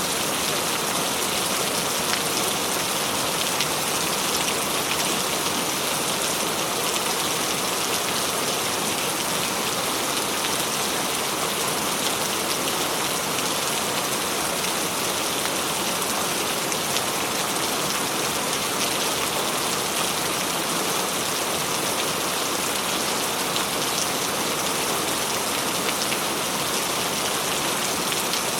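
Steady heavy rainfall, a dense even hiss of drops pattering on surfaces with tiny scattered ticks.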